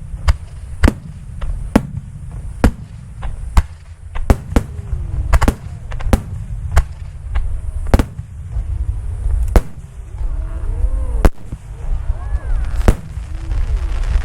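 Fireworks display: a quick series of sharp shell bursts, about one or two a second, over a continuous low rumble of booms.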